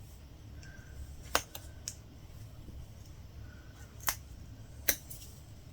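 Latch hook tool clicking as yarn is hooked into the canvas: about five short, sharp clicks at uneven intervals, the loudest about a second and a half in and about four seconds in.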